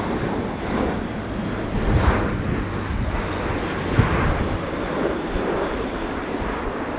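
Airbus A400M's four Europrop TP400 turboprop engines and propellers running at display power as the aircraft flies past: a steady, loud, rushing drone with a low hum beneath it.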